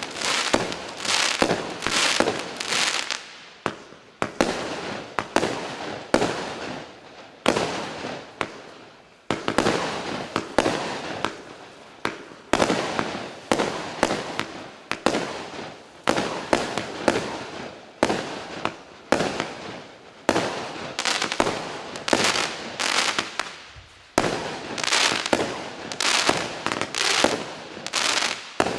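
Klasek 'Fireworks show 192' compound fireworks cake firing a fast, unbroken string of shots, about two a second. Each shot is a sharp report followed by a noisy, crackling tail as the stars burst.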